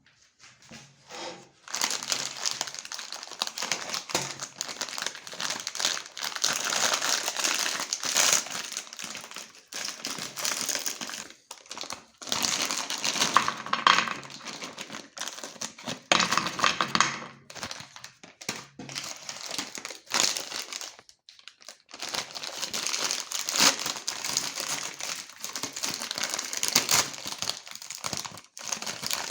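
Cookies being crushed in a meat grinder: dense, irregular crunching and crackling in long bursts, with a pause of a few seconds past the middle.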